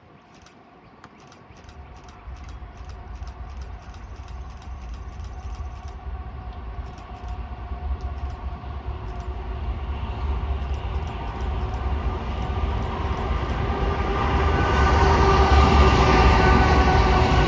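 Norfolk Southern intermodal freight train approaching, its diesel locomotives' rumble and engine tones growing steadily louder as it nears.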